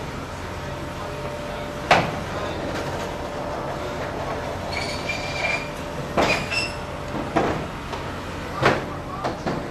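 Roofing work: irregular sharp bangs and knocks, about five in all, the loudest about two seconds in, over a steady low background hum, with a couple of short high squeaks around the middle.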